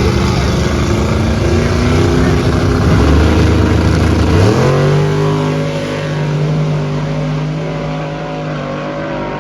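Drag-racing car engine running loud and unsteady at low revs, then revving up sharply about four and a half seconds in and holding high revs as it fades away down the track.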